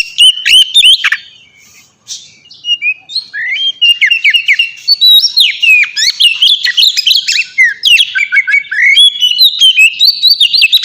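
Oriental magpie-robin singing a fast, varied song of whistled notes and quick pitch sweeps. It pauses briefly about a second in, then sings on almost without a break.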